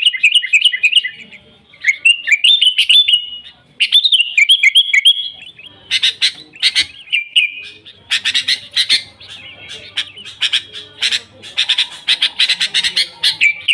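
Sooty-headed bulbul (kutilang) singing in full voice: bubbling whistled phrases for the first few seconds, then fast runs of harsh chattering notes.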